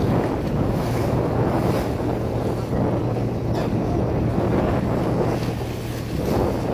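A passenger motorboat's engine running with a steady low hum while wind buffets the microphone and waves splash against the hull in rough water.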